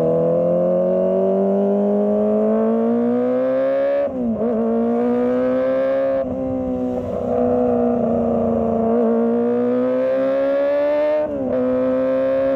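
Kawasaki ZX25R's 250 cc inline-four engine pulling up through the revs in a rising whine, with quick upshifts about four seconds in and again near the end, where the pitch drops sharply and climbs again. Around six seconds the throttle briefly eases off.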